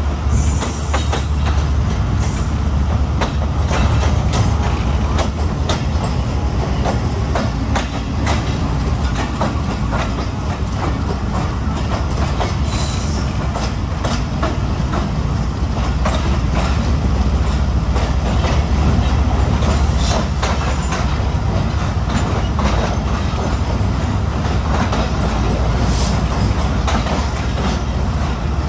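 Train running on the rails: a steady low rumble with irregular wheel clicks over rail joints and points, and brief high wheel squeals a few times.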